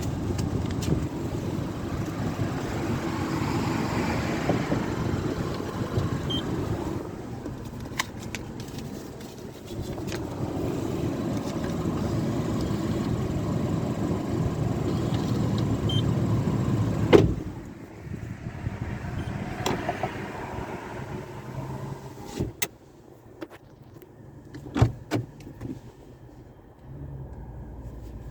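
Vehicle noise that swells and fades twice, like cars passing, with a single sharp click partway through, then a quieter stretch with a few scattered clicks.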